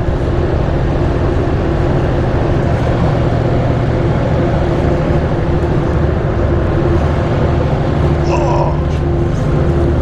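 A vehicle engine running steadily at a constant pitch, with a brief faint voice about eight seconds in.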